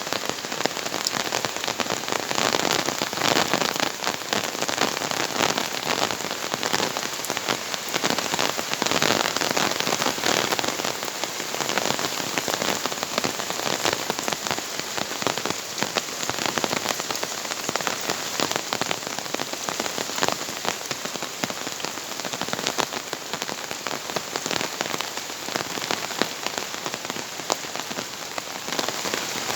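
Heavy tropical rain pouring down steadily, a dense, unbroken patter of countless drops.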